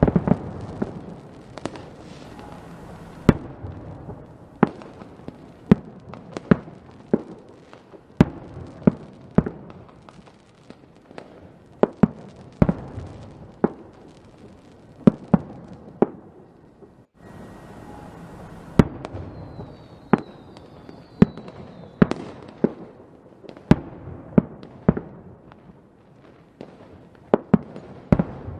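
Fireworks exploding in a steady barrage: sharp bangs about once a second over continuous crackling. A faint falling whistle runs briefly about two-thirds of the way through.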